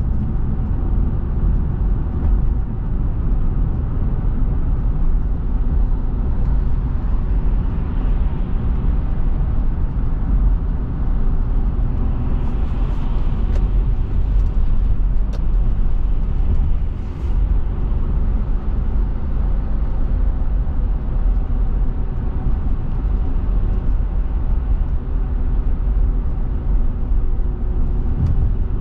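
A car driving, with a steady low rumble of road and engine noise. A few light clicks come near the middle.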